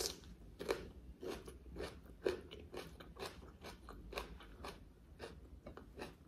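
Close-miked chewing of a mouthful of raw onion: crisp, wet crunches at about two a second.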